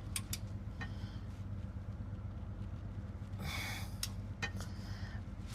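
A man breathes out hard while straining on a long wrench against a tight bolt, with a few light metallic clicks and knocks from the tool. A steady low hum runs underneath.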